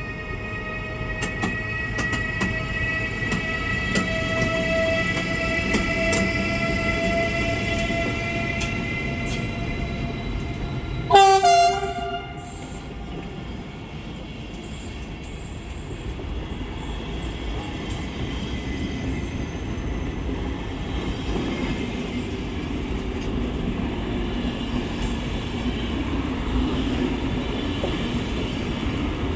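Electric train at a station: a whine of several tones slowly rising in pitch, with scattered clicks, then one short loud horn blast about eleven seconds in, followed by the steady rumble of the train rolling.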